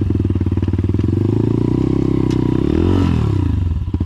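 A 140 cc carbureted single-cylinder four-stroke dirt bike engine running at low speed. About three seconds in it revs briefly up and back down. Near the end it drops to slow, widely spaced firing pulses as the bike crawls close to stalling.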